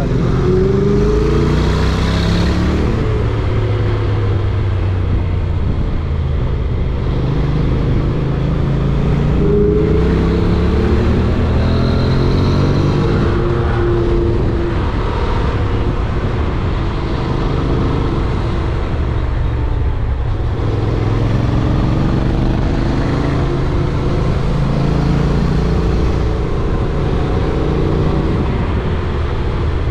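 Honda NC750X parallel-twin motorcycle engine under way. Its pitch rises repeatedly as it accelerates and drops back between gears, over a steady low rumble of wind and road.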